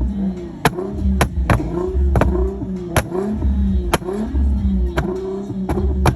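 A car engine revving repeatedly through a loud custom exhaust, with about nine sharp cracks spaced irregularly through the revs.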